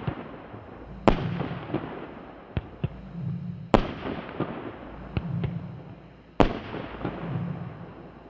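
Wolff 'Amadeus' compound fireworks battery (category F2) firing. Three loud bangs come about two and a half seconds apart, each followed by crackling, with smaller pops in between.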